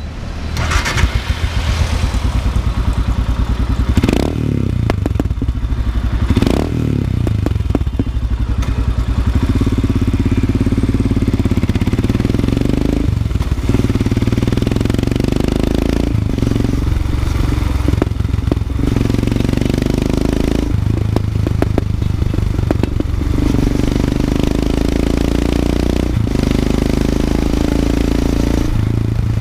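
Royal Enfield Himalayan's single-cylinder engine running steadily, with a couple of brief rises in engine speed in the first several seconds.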